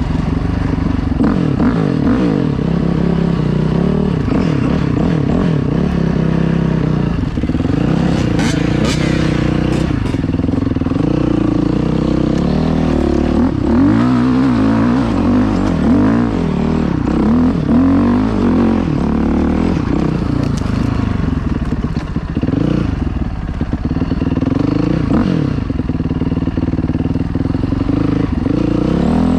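Dirt bike engine running under riding load, its revs rising and falling again and again as the throttle is worked on a muddy trail.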